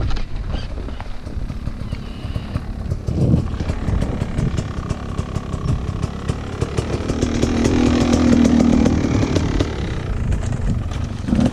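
Motocross bike engine running at high revs with a buzzing note, growing louder about seven seconds in and fading after nine as it passes.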